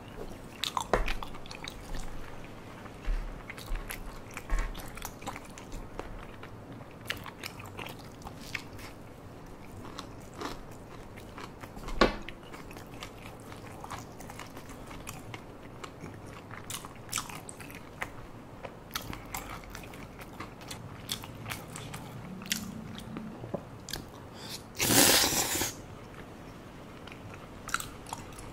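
Close-miked chewing and mouth sounds of someone eating spicy tteokbokki, with scattered sharp clicks of a spoon and chopsticks. A loud rush of noise lasting about a second comes near the end.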